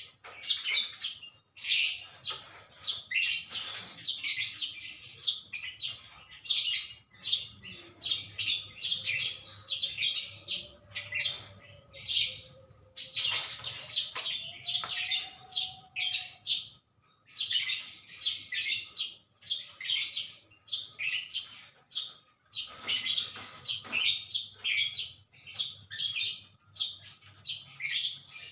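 Small birds chirping continuously in rapid, high-pitched runs of short notes, with brief pauses.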